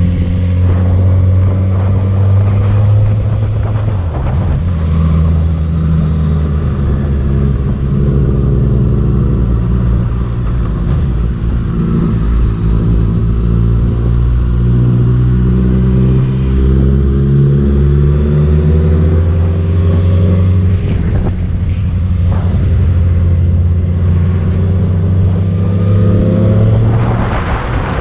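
Motorcycle engine running at road speed, its pitch rising and falling with throttle and gear changes, climbing sharply in a rev near the end.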